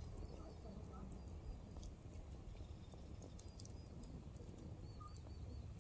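Firewood burning in an open campfire, crackling with scattered sharp pops and ticks over a steady low rumble.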